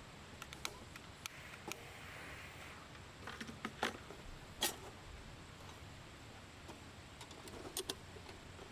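Irregular sharp clicks and taps over a quiet background, the loudest a few about four to five seconds in and a pair near the end.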